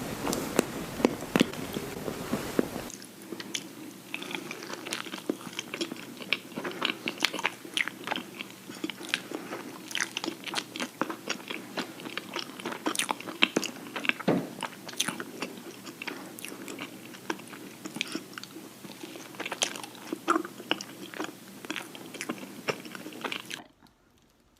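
Close-miked biting and chewing of an ice cream sandwich: dense, irregular mouth clicks and crackles of eating. The background changes about three seconds in, and the eating sounds stop shortly before the end.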